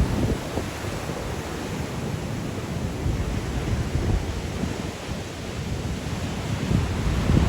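Sea waves breaking on the shore in strong wind, a steady rush of surf with wind buffeting the microphone in low gusts, strongest near the start and again near the end.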